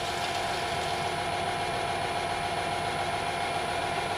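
Metal lathe running with a steady, even hum that does not change in pitch or level.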